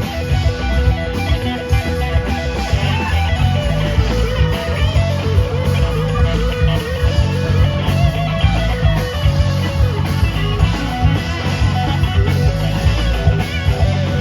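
Live rock band playing an instrumental passage without vocals: electric guitars over bass and drums, with a lead guitar line wavering through the middle.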